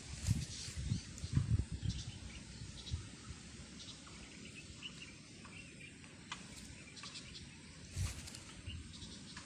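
Outdoor ambience with faint short bird chirps, and handling rustles and dull thumps close to the microphone during the first two seconds; a sharp click about eight seconds in.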